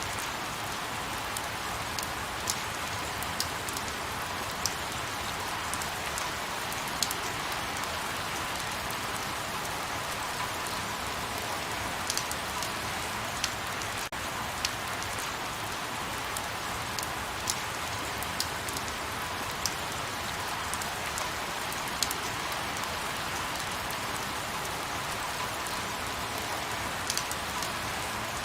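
Light rain falling steadily: an even hiss with scattered sharper drip ticks every second or two.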